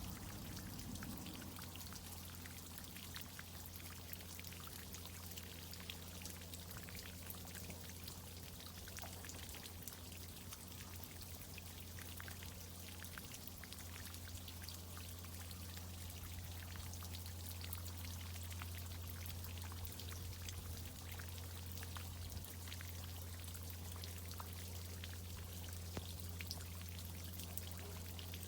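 Tree-watering irrigation system running: water pouring and spattering with a crackle of fine drips, over a steady low hum.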